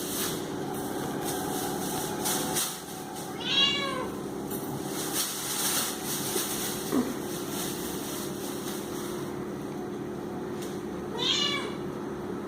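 A cat mews twice, two short high calls rising and falling in pitch, about eight seconds apart, over a steady low background hum.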